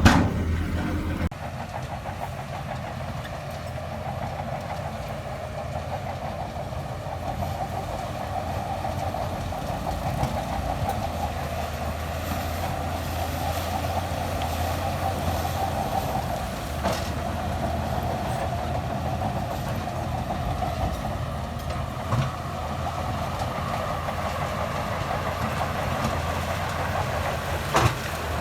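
Shantui DH17C2 crawler bulldozer working: its diesel engine runs steadily under a continuous clatter of the steel tracks. It is louder for about the first second, and a few sharp knocks stand out, one near the end.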